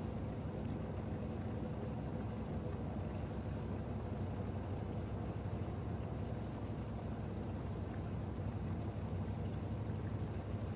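Steady low drone of an idling engine, a constant hum with no change, over faint background noise.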